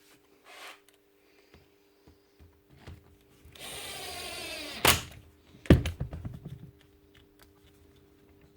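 A small power tool's motor runs briefly for about a second, ending with a sharp click, followed by a cluster of loud knocks and clatter as tools or parts are handled; light taps and clicks of bench work come before and after.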